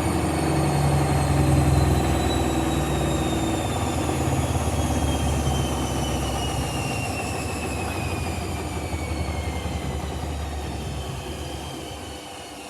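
Hoover One Touch washing machine winding down from a fast spin: the motor's whine falls steadily in pitch over a heavy low rumble from the drum, and the rumble fades away near the end. The load, a blanket and bedding, went badly out of balance at around 1000 rpm.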